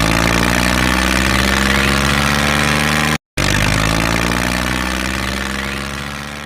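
Tractor engine idling steadily. The sound drops out for a split second about three seconds in, then fades away near the end.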